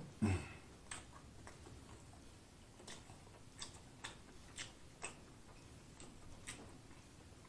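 Close-miked chewing of a mouthful of fried chicken sandwich with the mouth closed: soft wet mouth clicks and smacks at an uneven pace, about one every half second to a second. A louder, lower mouth sound comes just after the start.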